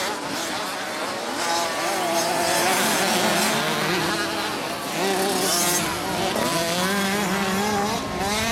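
Several 50 cc automatic motocross bikes racing, their small two-stroke engines revving with overlapping pitches that keep rising and falling.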